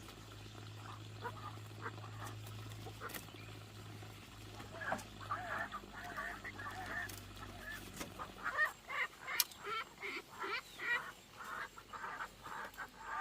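Domestic poultry calling: a flurry of short, honking, quack-like calls that starts about five seconds in and gets busier from about eight seconds. A steady low hum runs under the first eight seconds.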